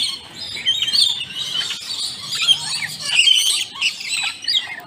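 Many birds chirping and squawking at once, a dense overlapping chatter of short, high calls.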